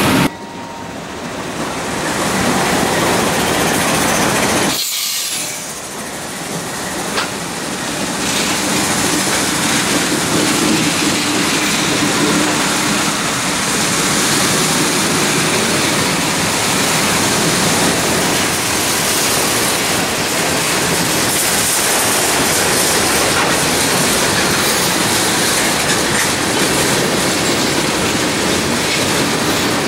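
Diesel-hauled freight train passing close by: the locomotives run past, then the tank cars and hoppers follow with a steady rumble and the clickety-clack of wheels over the rail joints.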